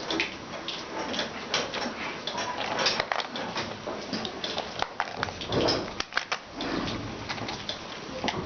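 Animals stirring in a dairy barn: scattered clicks and knocks, with a louder animal sound about five and a half seconds in.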